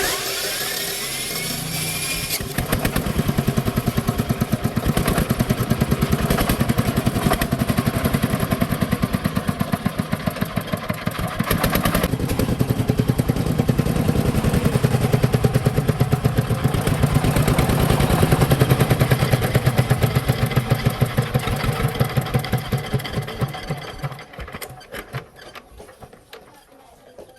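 A four-wheeler's engine is cranked with a rising whine, catches a couple of seconds in and runs with a rapid, even firing beat, its level swelling and easing. Near the end it slows and dies away.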